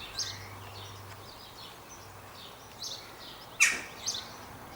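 Birds chirping with short high tweets throughout, and one louder, sharp call about three and a half seconds in, over steady outdoor background noise.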